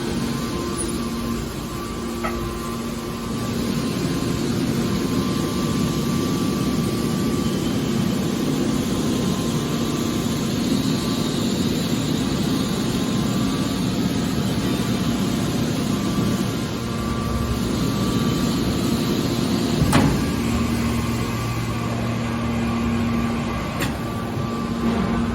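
Hydraulic scrap metal baler shear running, its hydraulic pump giving a steady hum over machine noise, with one sharp clank about twenty seconds in.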